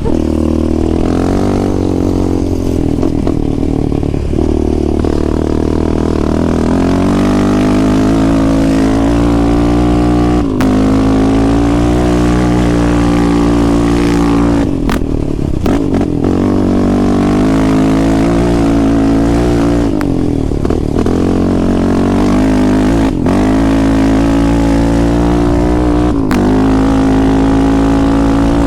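A sport quad's engine ridden hard, its pitch climbing and then dropping sharply again and again as the throttle is opened and closed.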